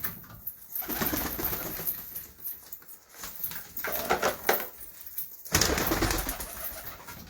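Domestic pigeons cooing, with a loud noisy burst about five and a half seconds in.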